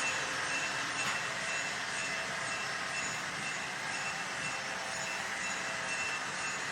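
Model train running on the layout track: a steady whir of the locomotive motor and rolling wheels, with a faint high whine.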